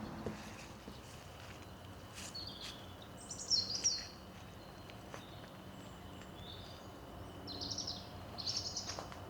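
A songbird singing short, rapid trilled phrases, two or three in a row about two seconds in and again near the end, over faint steady outdoor background noise.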